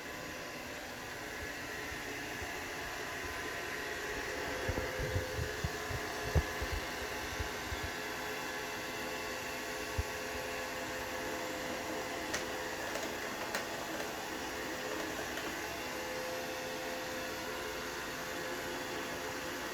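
Roomba robot vacuum running with a steady motor whir while it tries and fails to dock. A cluster of low thumps comes from about five to seven seconds in, a single knock at about ten seconds, and a few faint clicks after.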